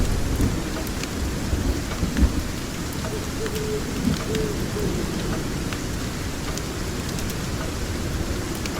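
Steady rain with a low, continuous thunder rumble underneath, and scattered sharp crackles or drips over the top. A brief faint tone sounds around the middle.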